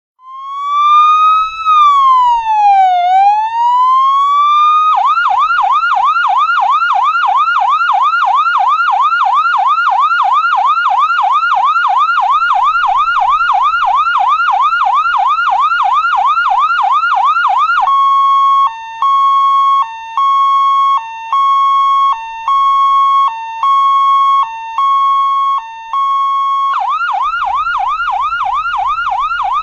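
Electronic emergency-vehicle siren cycling through its tones: a slow wail that rises, falls and rises again, then a fast yelp, then a steady high tone broken by short low blips about every second, and the fast yelp again near the end.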